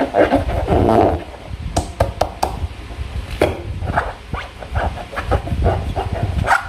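Slime being squished and stretched by hand, with irregular wet squelches and sticky clicking pops.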